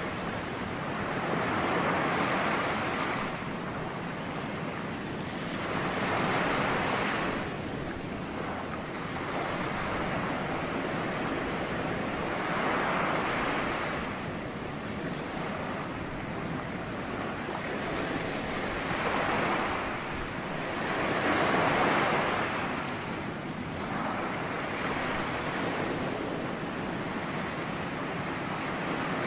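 Ocean waves breaking and washing on the shore, a continuous rush that swells with each wave roughly every five or six seconds and then eases back.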